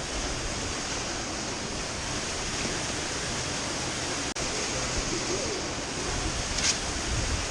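Steady rush of creek water flowing and falling through a slot canyon, with a brief dropout about four seconds in.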